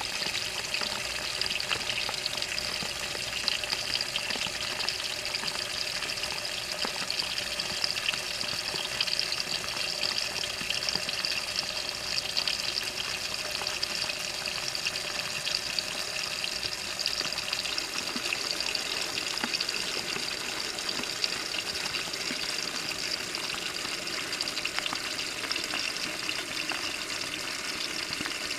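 Water rushing and splashing steadily inside a Maytag washing machine tub, heard from a camera mounted in the tub.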